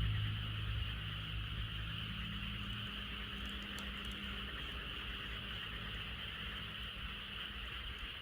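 A dense chorus of frogs calling steadily, heard as an even high-pitched trill, with a few faint crackles from the campfire. A low rumble underneath fades away about three seconds in.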